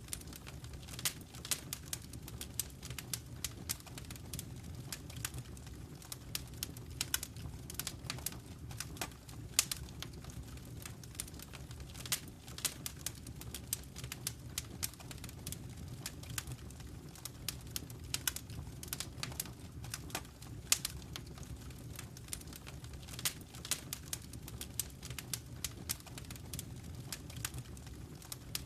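Wood fire burning in a fireplace: irregular sharp crackles and pops, a few much louder than the rest, over a steady low rumble of the flames.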